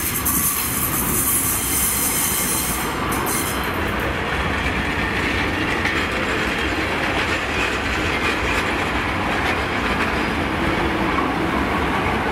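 Transport for Wales passenger train running past close by, a steady rumble of wheels on the rails, with a high hiss over the first few seconds.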